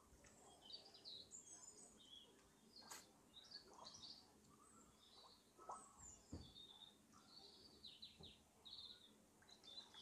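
Faint, scattered chirps of small birds, short high calls coming every second or so over a quiet outdoor background.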